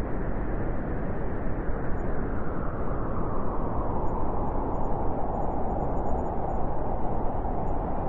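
Strong blizzard wind blowing steadily in a forest: an even rush of noise with a deep rumble underneath. The mid-pitched part grows stronger about halfway through.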